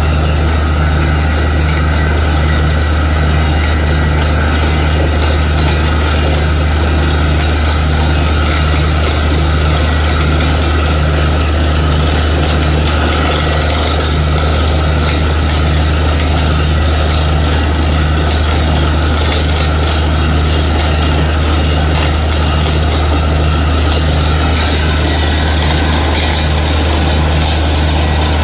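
Borewell drilling rig running steadily under heavy machine power, with a deep steady hum and a low throb pulsing about once a second.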